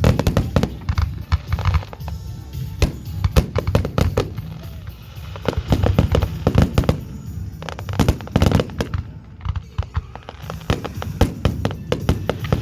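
Fireworks display going off: many sharp bangs and crackles in quick clusters over a low rumble, easing briefly about nine seconds in before picking up again.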